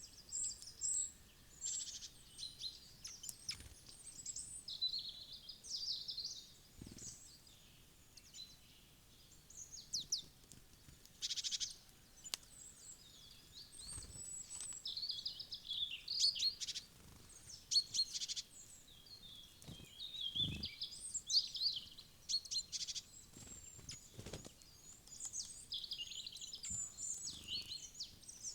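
Wild songbirds chirping and calling, many short high notes and phrases overlapping throughout, with a few isolated soft knocks here and there.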